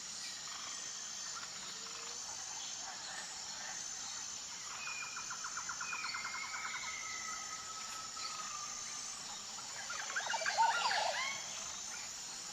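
Wild ambience of insects buzzing steadily at a high pitch in regular pulses, with bird calls over it: a rapid trill and drawn-out whistled notes about five seconds in, then a louder burst of short chattering calls around ten seconds in.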